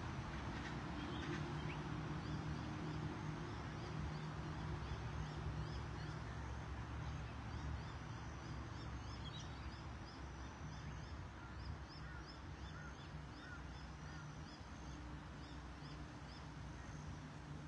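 Birds calling in quick strings of short, high chirps over a steady low hum.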